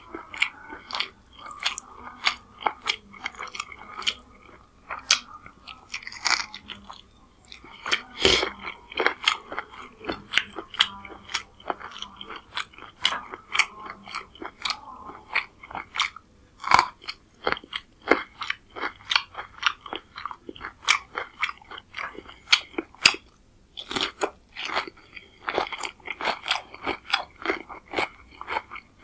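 Close-miked chewing and biting as rice and chicken curry are eaten by hand, a steady run of wet clicks and crunches several times a second, with crisp bites of raw green chilli and cucumber.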